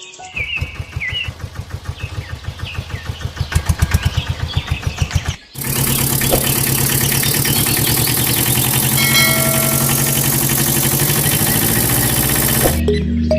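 An engine cranking and starting with a rapid, even chugging that grows louder, a brief drop, then running steadily until it cuts off abruptly near the end.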